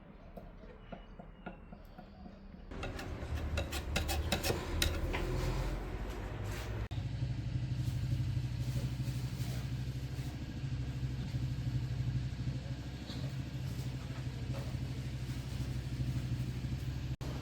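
Faint ticking, then from about three seconds a clatter of sharp clicks and rattling. From about seven seconds a motor runs steadily with a low hum.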